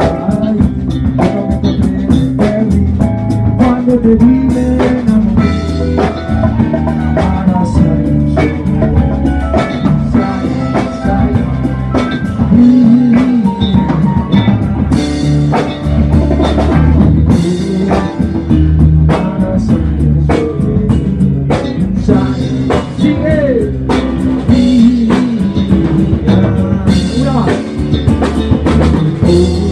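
Live funk band playing an instrumental stretch of a song, with a drum kit keeping a steady beat under electric guitar and a moving low line.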